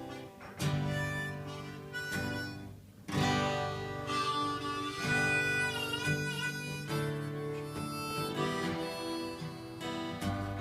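Instrumental song intro on harmonica over strummed acoustic guitar, with held harmonica notes that bend in pitch.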